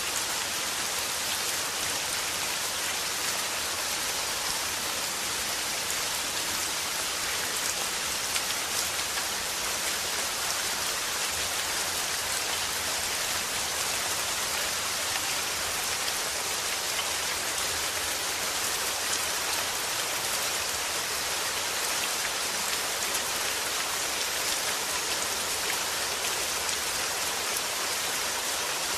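Steady rain falling, a constant even hiss of many drops without a break.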